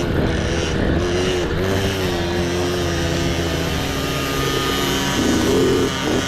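Mini bike engine running as it is ridden, its pitch holding fairly steady with small rises and dips.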